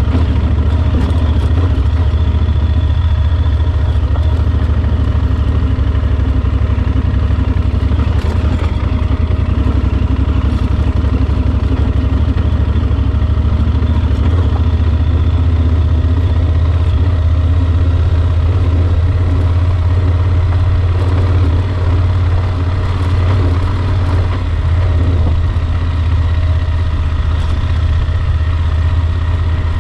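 Yamaha Super Ténéré XT1200's parallel-twin engine running steadily, with a deep, even drone.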